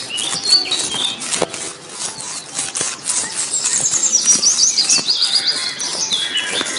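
Rapid, high-pitched chirping and squeaking, with many sharp clicks. Around the middle, a run of short squeaks steps downward in pitch.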